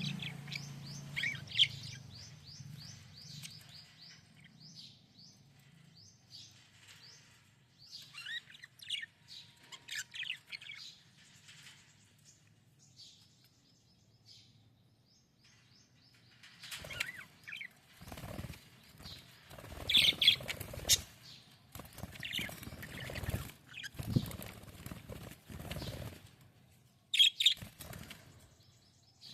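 Budgerigars chirping in short bursts, then several loud bouts of wing flapping in the second half, mixed with more chirps.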